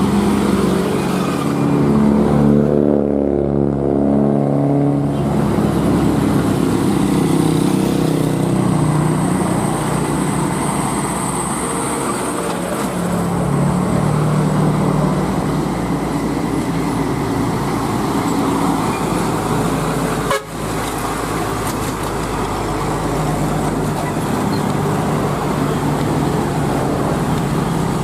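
Heavy truck diesel engines labouring up a steep climb, the engine note rising and falling as they pull; the sound breaks off sharply for an instant about 20 seconds in.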